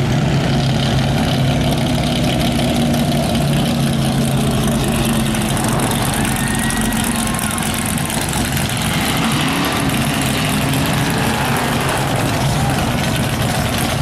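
Car engines idling and running slowly, with a steady low engine tone that weakens about halfway through.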